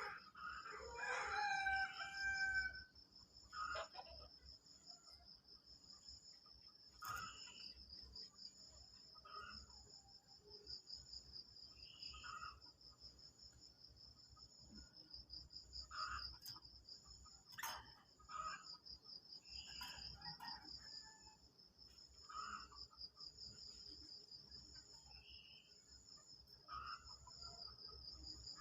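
Faint, scattered short calls of sooty-headed bulbuls over a steady, pulsing high insect drone, with a rooster crowing about a second in.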